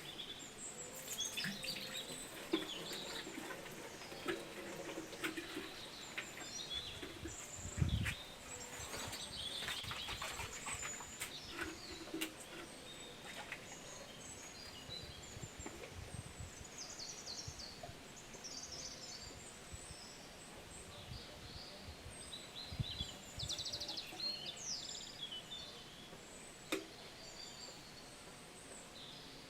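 Small birds chirping and calling over a steady background hiss, with scattered light clicks and knocks and one louder low thump about eight seconds in.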